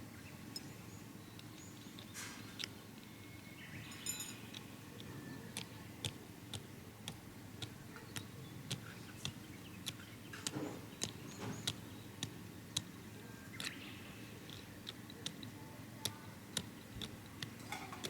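Wood fire crackling, with irregular sharp pops that come more often from the middle on. A brief high chirp sounds about four seconds in.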